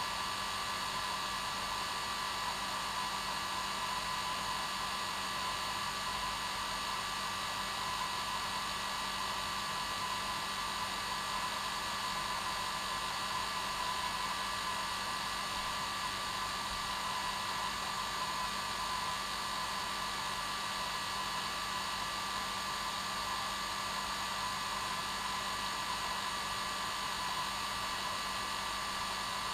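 Hair dryer running steadily on its normal setting: an even whoosh of blown air with a constant motor hum and whine.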